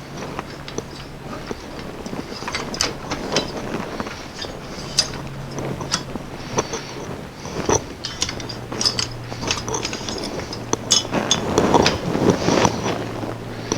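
Irregular clicks, clinks and knocks of hard parts being handled while sections of a neon sign are worked loose, busiest near the end, with a low hum that comes and goes.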